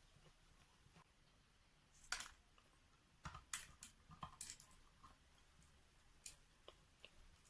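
Faint, scattered crunches and clicks of wet natural chalk being chewed: one sharper crunch about two seconds in and a cluster of them a second later.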